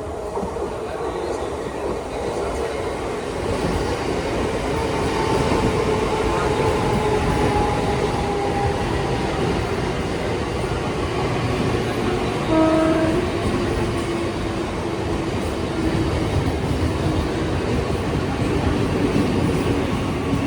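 A train running through the station with a steady rumble of wheels on the rails and a whine that slowly falls in pitch. A short horn blast sounds about twelve and a half seconds in.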